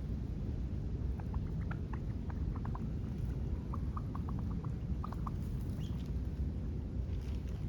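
Small birds giving short, high chirps in quick loose series, over a steady low rumble.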